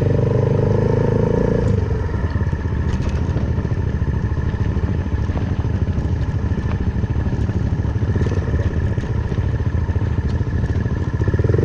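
Suzuki Van Van 125's single-cylinder four-stroke engine, fitted with an aftermarket full exhaust, running at low speed through muddy ruts. It is louder for about the first two seconds, eases off, and picks up again near the end, with scattered small clatters.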